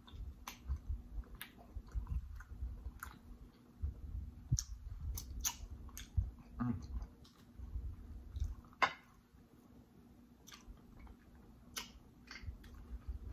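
A man chewing food close to the microphone: irregular mouth clicks and soft smacks as he eats, quieter for a stretch about two-thirds through.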